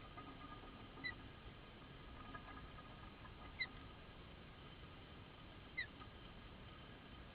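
A small bird giving three short, high, rising chirps about two seconds apart, faint, over a faint steady background hum.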